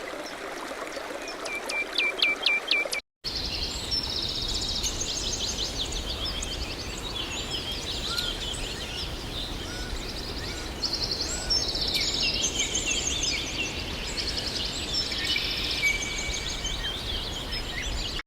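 Songbirds singing: short repeated chirps for about three seconds. After a brief dropout comes a busier chorus of trilling birdsong over a steady rushing background noise.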